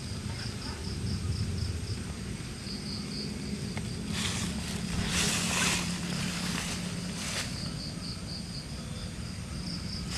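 Night insects chirping in a high, evenly pulsing rhythm, about four or five pulses a second, with a few brief bursts of rustling partway through.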